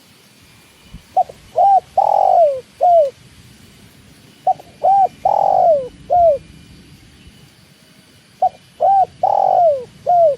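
Spotted dove (tekukur) cooing three times, a few seconds apart. Each phrase has two short coos, then a longer, louder falling coo and a short falling coo to close.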